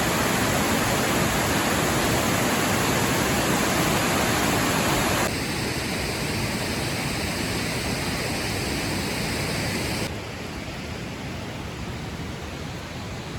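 Waterfall rushing, a steady wash of falling water that drops sharply in level twice, about five seconds in and again about ten seconds in.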